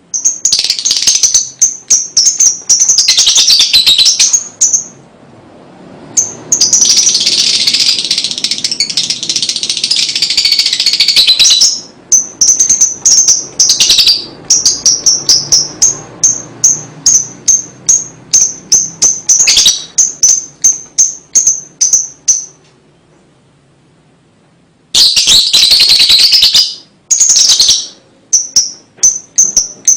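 Lovebird chattering in long, rapid 'ngekek' trills: strings of high-pitched chirps repeated several times a second. It stops twice, briefly near the start and for a couple of seconds near the end.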